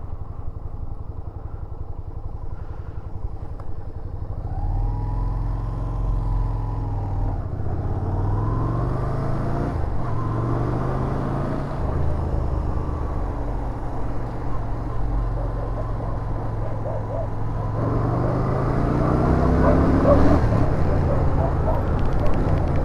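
Yamaha SRV250's V-twin engine idling with an even low pulse, then pulling away about four seconds in. It accelerates through the gears, the pitch rising and dropping back at each change, with a long climb near the end.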